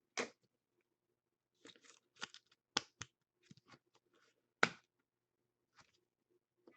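Trading cards and plastic card sleeves being handled: faint, scattered short rustles and clicks, about ten of them, irregularly spaced.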